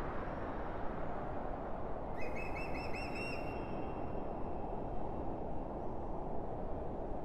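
A steady low rumble with a bird call about two seconds in: a quick run of five or six chirps that ends in a held note.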